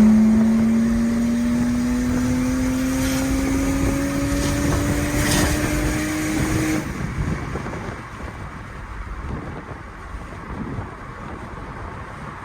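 Single-turbo BMW 335i's inline-six engine pulling under full throttle, its note rising steadily for about seven seconds before the throttle is lifted and only road and tyre noise is left.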